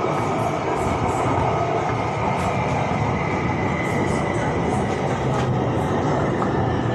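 Electric Skytrain car in motion, heard from inside the carriage: a steady rumble of wheels on rail with a faint steady whine and scattered light ticks.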